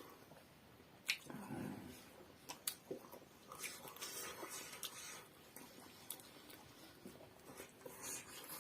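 Quiet eating sounds as momos are chewed, with a few sharp clicks and soft squishy noises.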